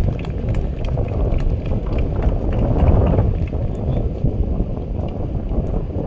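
Wind buffeting the microphone: a low, steady rumble that swells briefly about halfway through.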